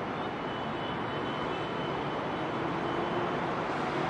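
Steady distant rumble of elevated MRT trains running on the viaduct tracks, with a faint high whine through most of it and a lower hum rising out of it near the end.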